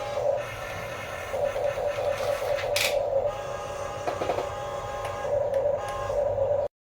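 Small electric motors and plastic gearboxes of a remote-control toy construction vehicle running with a steady, wavering whine, with a sharp click about a third of the way in. The sound cuts off abruptly near the end.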